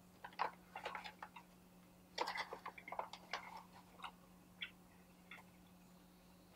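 Faint, irregular clicks and crackles of beef jerky being chewed and its plastic pouch being handled, in two bunches with a few single ticks after, over a faint steady hum.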